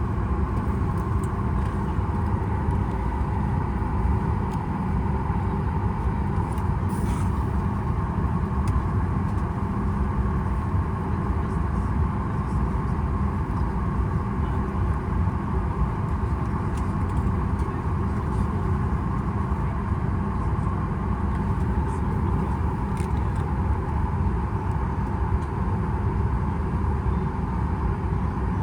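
Steady cabin hum inside a Boeing 737 MAX 8, a low, even rumble of the aircraft's air and engine noise with a faint higher hum on top, and a few light clicks.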